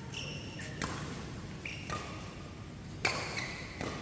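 Badminton rally: a racket strikes the shuttlecock with a sharp crack a little under a second in and again about three seconds in, the second louder. Short high squeaks of court shoes on the floor come in between.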